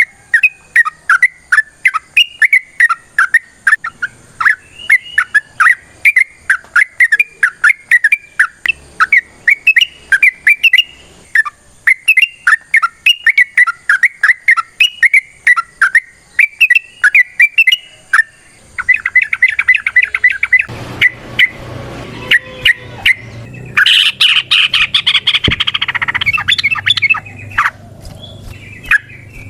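Yellow-vented bulbul (trucukan) calling a long run of short chirping notes, a few each second. About two-thirds in, the notes come faster and crowd together. Near the end they give way to a louder, noisier stretch of sound.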